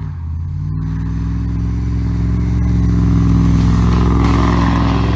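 Straight-piped Cummins diesel engine running with a deep, steady exhaust note that grows a little louder about two seconds in.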